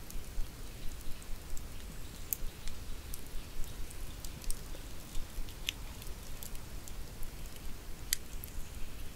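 Wood campfire burning, crackling with many small irregular pops and a few sharper snaps, over a low steady rumble.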